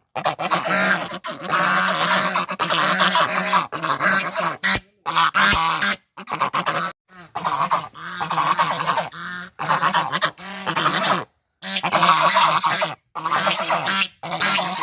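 Domestic geese honking, several birds calling over one another in runs of harsh calls broken by short pauses.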